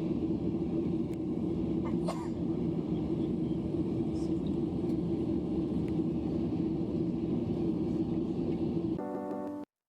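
Steady cabin rumble of a Boeing 737-800 on the ground with its engines running, with a constant low hum. Music takes over near the end.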